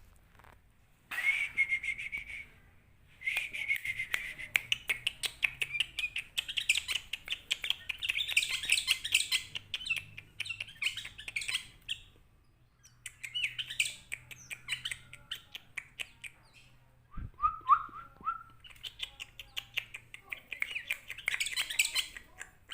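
Sooty-headed bulbul (kutilang) singing in long runs of rapid, chattering notes, broken by short pauses, with one lower whistled phrase about two-thirds of the way through.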